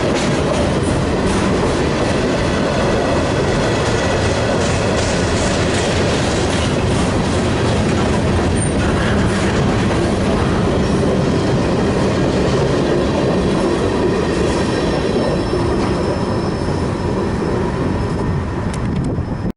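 Train cars rolling past on the rails, a steady loud rumble with wheel clicks over the rail joints and faint wheel squeal.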